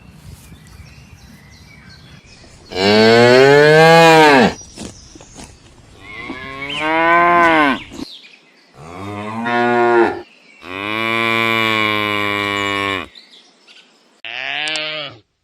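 Cattle mooing: five long moos, each rising and then falling in pitch, with short pauses between them.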